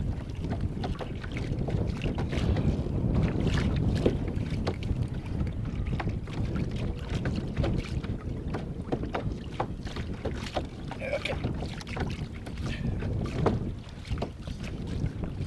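Wind buffeting the microphone in a dense low rumble, with scattered small clicks and knocks throughout.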